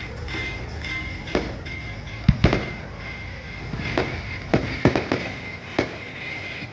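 Aerial fireworks bursting in an irregular series of sharp bangs, the loudest about two seconds in and a quick cluster of bangs a little after the middle.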